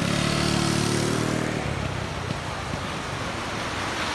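A car engine running through floodwater, its note fading after about a second and a half into a steady rushing hiss of water and spray.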